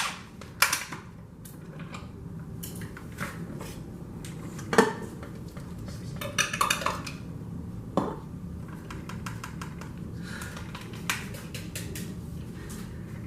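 Kitchen utensils clinking and scraping against dishes and containers during food prep: scattered sharp clinks, the loudest about half a second in, near five seconds and near eight seconds, some briefly ringing.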